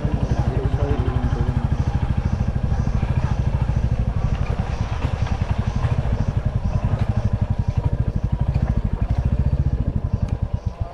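Royal Enfield Classic 350's single-cylinder engine running with a steady, even exhaust beat; the beat falls away near the end.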